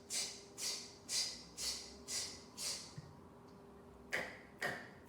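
A woman repeating a hissing consonant sound in short puffs, about two a second: six in a row, a pause of about a second, then two more. It is a letter sound being drilled in phonics.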